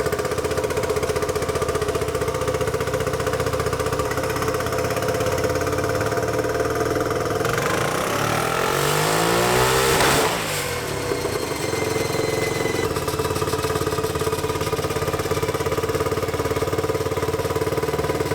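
Turbocharged Yamaha Raptor 660 single-cylinder engine running on the dyno. It holds steady, then climbs in revs and loudness from about eight seconds in with a rush of noise, drops back abruptly just after ten seconds, and runs steadily again.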